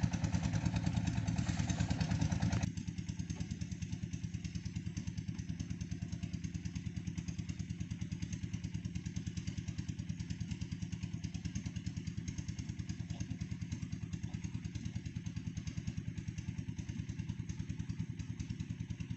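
Engine driving a red-brick making machine, running steadily with a rapid, even pulse. About three seconds in, a louder clattering layer stops abruptly and the engine runs on more quietly.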